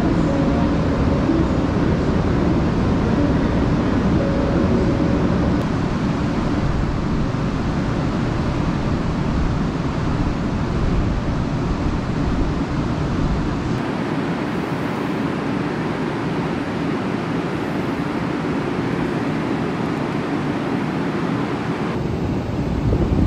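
Interior running noise of a JR West 500 series Shinkansen train: a steady rumble and rush of wheels and air, with a faint humming tone in the first few seconds. The deepest part of the rumble drops away about two-thirds of the way through.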